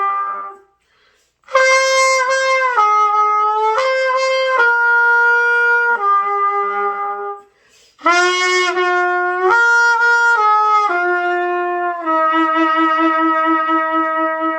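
Trumpet playing a slow melody of held notes that step from pitch to pitch, in two phrases with a short break about a second in and another about seven seconds in. The last note is held long with a regular pulsing vibrato.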